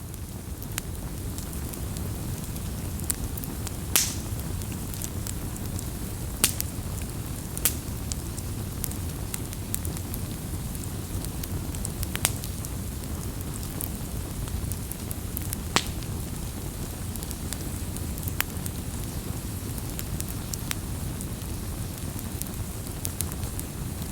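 Wood fire crackling: sharp irregular pops and snaps over a steady low rush of burning, the loudest pop about four seconds in.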